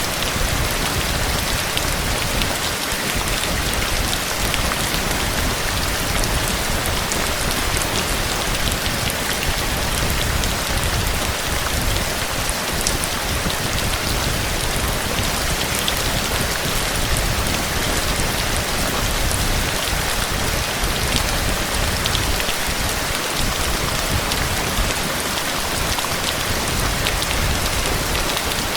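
Heavy rain falling steadily, with many individual drops ticking sharply over the even rush of the downpour.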